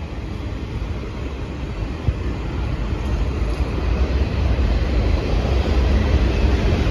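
Diesel freight train locomotives approaching on the line, a low rumble growing steadily louder.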